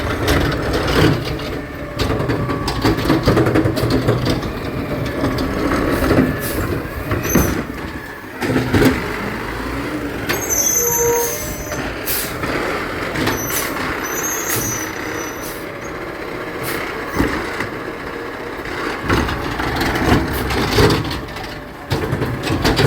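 Garbage truck working: engine running, with repeated knocks and clanks and brief high squeals partway through, and the hiss of air brakes.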